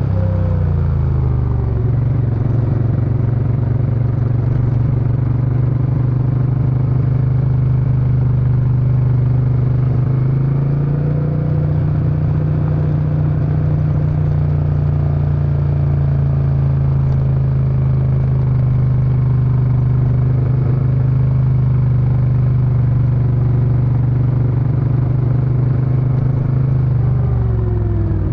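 Suzuki Intruder VS800's V-twin engine running through its exhaust while the motorcycle is ridden along at cruising speed. The engine note drops just after the start, climbs again about ten seconds in, holds steady, and falls once more near the end.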